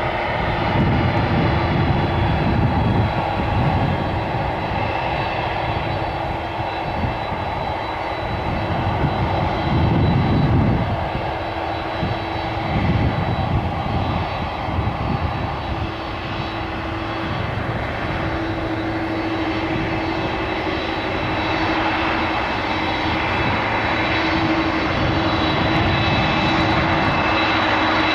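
Jet airliner engines at takeoff power: a continuous low rumble that swells and eases, with steady whining tones from the engines that grow stronger toward the end.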